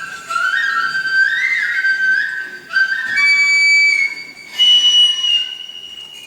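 A flute playing a slow melody of held notes joined by slides, climbing to a high, held note a little past halfway.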